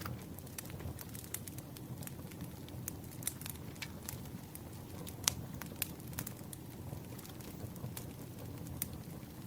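Campfire crackling: a steady low rumble of burning with scattered sharp pops and snaps, one pop about five seconds in standing out above the rest.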